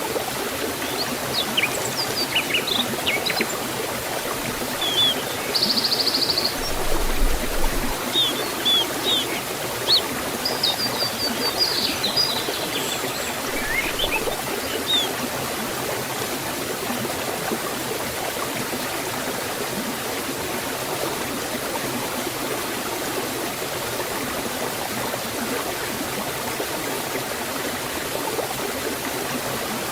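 Waterfall and stream water rushing steadily. Birds chirp over it through roughly the first half, then only the water is heard.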